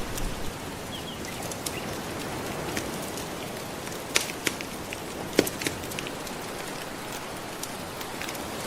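Wood fire crackling with scattered sharp pops over a steady wash of gentle ocean waves; the loudest pops come about four to five and a half seconds in.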